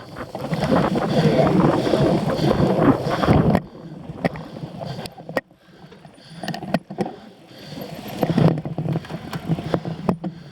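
Wind buffeting the microphone over the rumble and rattle of a cyclocross bike riding over rough ground, with scattered sharp clicks; loudest in the first three and a half seconds and again near the end.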